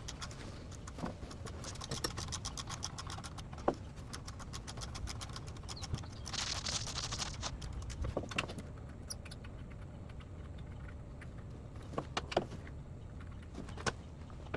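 Small metal clicks, clinks and rattles of hand tools and parts being handled while taking apart a car's engine bay, with a brief hiss about six seconds in and a few sharper knocks near the end.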